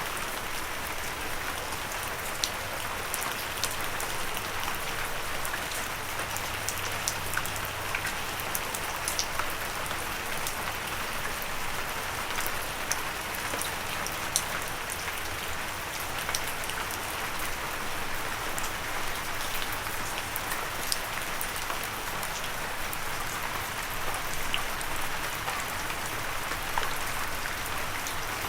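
Steady light rain falling, an even hiss with many separate drops tapping sharply on a surface.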